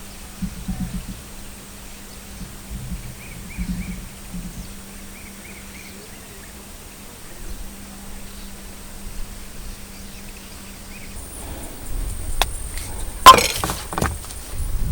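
Scattered soft knocks and a few faint chirps, then from about twelve seconds a run of clicks and knocks with one loud, sharp crack just after thirteen seconds.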